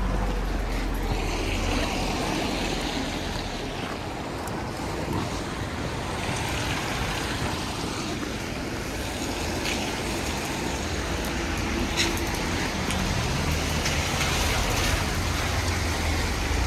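Street traffic on a wet road: passing vehicles with tyre hiss over a steady low rumble, and one sharp click about twelve seconds in.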